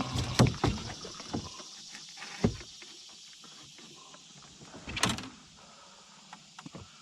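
Knocks and bumps of handling in a canoe: a quick run of thumps in the first second and a half, a single knock about two and a half seconds in, and a louder scraping rustle about five seconds in, with a few faint clicks near the end.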